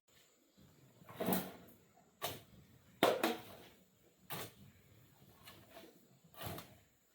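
Repeated strikes and scrapes from a hand tool working the ground or building material, about six strokes at uneven gaps of around a second.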